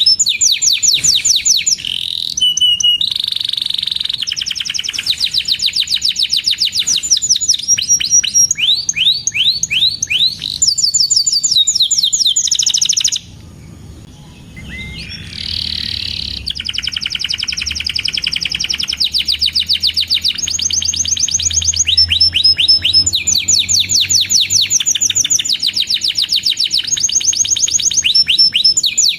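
Domestic canary in full song, singing long rapid trills and rolls of evenly repeated chirps. It breaks off for about two seconds near the middle, then takes up the trilling again.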